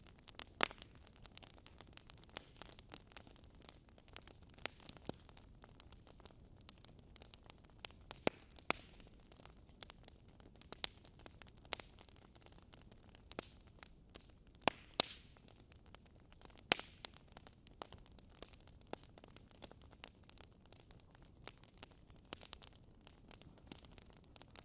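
Wood fire crackling in a fireplace: faint, with irregular sharp pops and snaps from the burning logs.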